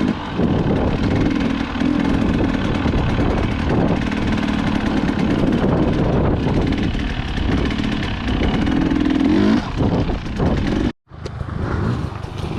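Dirt bike engine running and revving under way, steady throughout, with a brief dropout near the end where the sound cuts off and comes back.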